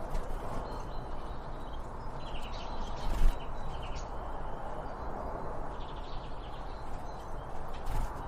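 Birds chirping in short high calls over a steady outdoor background hiss, with a sharp knock about three seconds in and another near the end.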